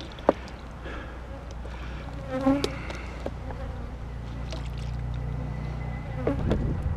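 Honeybees buzzing around open hives as a steady hum, with a sharp click shortly after the start and a brief louder sound about two and a half seconds in.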